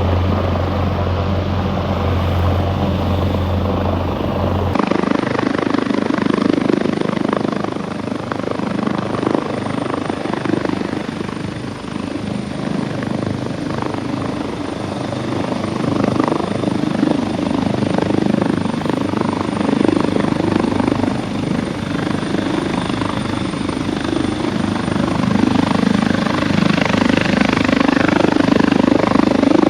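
Rescue helicopter flying, its rotor and engine running steadily. A deep hum in the first five seconds stops abruptly, and the helicopter noise grows a little louder near the end.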